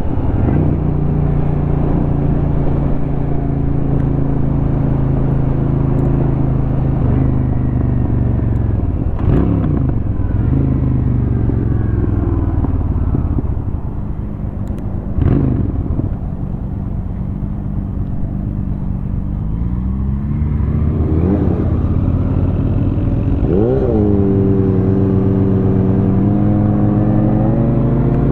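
2004 Honda Shadow 750's V-twin engine running under way, heard from the rider's seat. Its pitch jumps sharply twice and sags through the middle as the bike slows. It then climbs through the gears and settles into a steady cruise.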